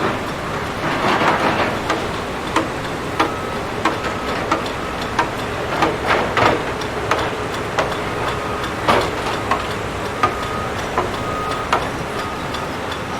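Demolition machinery at work: a steady engine running under frequent, irregular sharp clanks and crashes of breaking building material, about one or two a second. Short faint beeps repeat through the second half.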